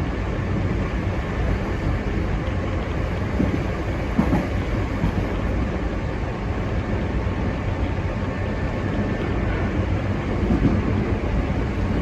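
Hankyu Imazu Line electric train running along the track, a steady rumble of wheels on rails heard from inside the car. There is a brief knock about four seconds in.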